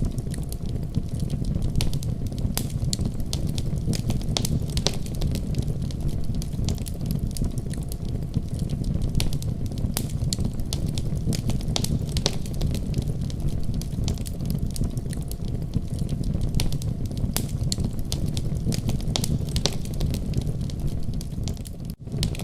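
Wood fire crackling: a steady low rumble of flames with frequent sharp pops and snaps scattered irregularly throughout. The sound drops out for an instant near the end.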